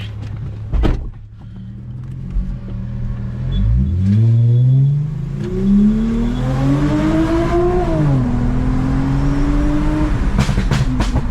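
Toyota Mark X's V6 with a modified exhaust accelerating: the engine note climbs steadily for several seconds, falls away about eight seconds in, then holds a steady drone. A short knock comes about a second in.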